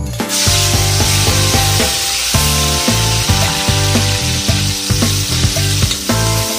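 Diced carrots sizzling in hot oil in a wok, the sizzle starting suddenly as they hit the pan. Background music with a steady beat plays over it.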